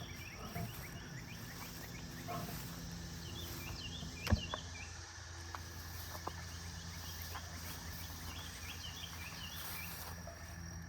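Faint outdoor ambience: small birds chirping in short repeated notes over a steady insect drone, with one sharp click about four seconds in.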